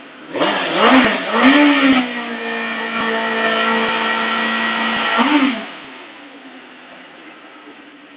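Suzuki GSX-R 750 SRAD's inline-four engine revved in a few quick blips, then held at steady high revs for about three seconds. A little past halfway the revs drop and the engine settles back to a quieter idle.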